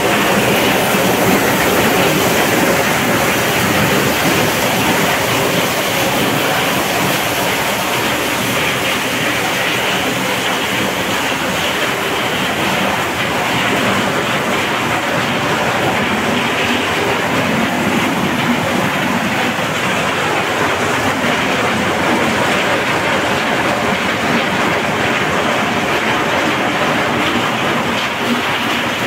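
Corn-shelling machine running steadily, stripping kernels from the cobs, giving a loud, continuous dense noise without letup.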